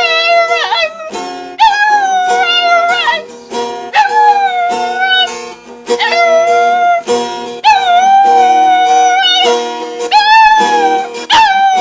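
Dog howling along to a guitar: a series of long, high, wavering howls, one after another, over sustained guitar chords.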